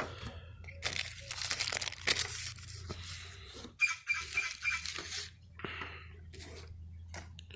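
Firecracker pack wrappers rustling and crinkling as they are handled, in irregular bursts, with a short squeaky rub about four seconds in. A faint steady low hum runs underneath.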